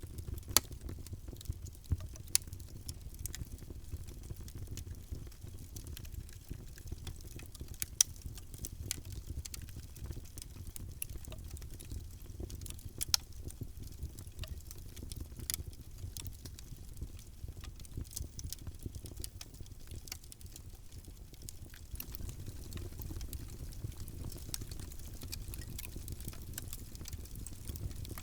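Wood fire crackling in a fireplace: irregular sharp pops and snaps over a low steady rumble of flame, with a few louder pops about half a second in, around eight seconds and around thirteen seconds.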